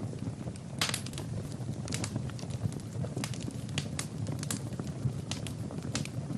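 Wood fire burning in a fireplace: a steady low rumble of flames with irregular sharp crackles and pops from the burning logs, several close together about a second in.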